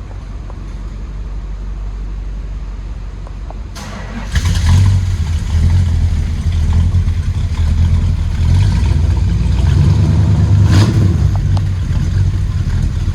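Cold start of a 1964 Plymouth Sport Fury's 383 cubic-inch V8 with a four-barrel carburettor. After a click, the engine fires about four seconds in and then keeps running with a steady, loud rumble.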